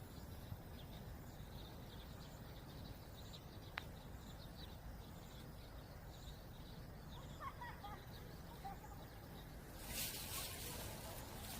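Outdoor ambience of wind rumbling on the microphone with faint, scattered bird chirps. A short string of chirps comes about two-thirds of the way through, and a brief hiss rises near the end.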